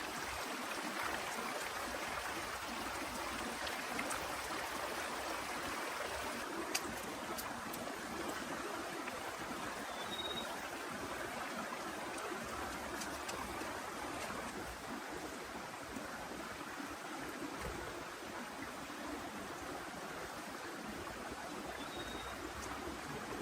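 Heavy rain falling steadily, a continuous even hiss, with a few faint sharp clicks.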